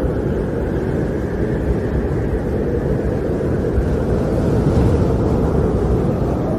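Snowstorm wind blowing steadily, a deep, dense rush, growing a little brighter about two-thirds of the way through.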